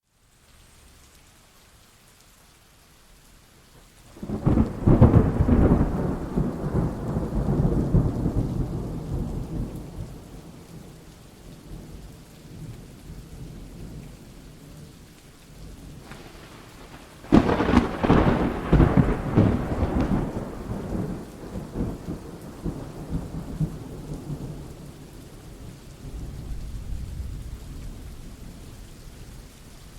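Thunderstorm with steady rain, broken by two loud thunderclaps, one about four seconds in and another about seventeen seconds in, each rumbling away over several seconds; a fainter low rumble of thunder comes near the end.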